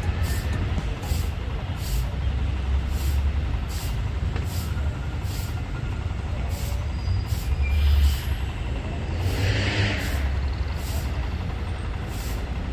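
Steady low engine rumble, with a short burst of hiss about ten seconds in.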